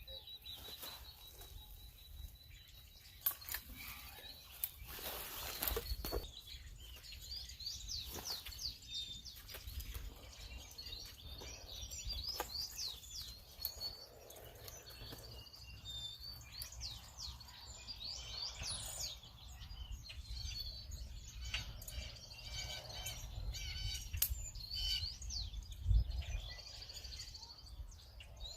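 Small wild birds chirping and singing, many short high calls overlapping throughout, over a steady low rumble.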